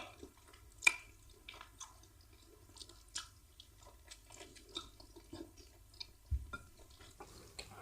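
Quiet eating sounds: chewing and small wet mouth clicks while eating egusi soup with fufu, with a few sharper clicks and a low thud.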